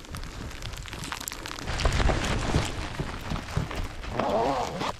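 Wind buffeting the microphone in low rumbles, loudest in the middle, over crunching steps in deep snow, with a brief wavering pitched sound about four seconds in.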